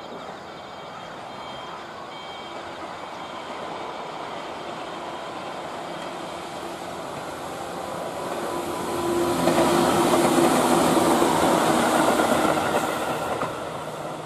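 Tobu 8000 series four-car electric train approaching and passing close by, its wheels rumbling on the rails with a low hum. The noise builds slowly, is loudest for about three seconds past the middle, then fades as the train goes by.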